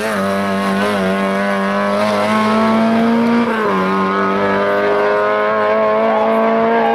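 Rally car engine held at high revs under full throttle on a hill climb, with a brief dip in pitch and recovery about three and a half seconds in, as at a gear change.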